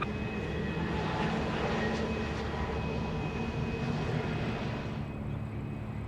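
Fixed-wing aircraft engine running steadily with a held whine, its upper part fading about five seconds in.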